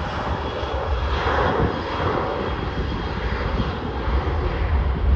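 Jet engines of an Amazon Prime Air cargo airliner running: a steady, loud roar with a faint steady whine over it.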